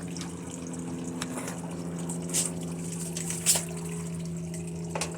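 A steady low hum runs throughout, with a few sharp clicks and taps of a screwdriver working screws out of a plasma TV's back panel; the loudest click comes about three and a half seconds in.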